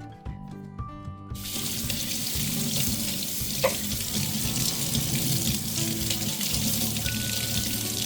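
Tap water running as the scraped, descaled gooseneck faucet part is rinsed under it. The water comes on about a second and a half in and shuts off near the end.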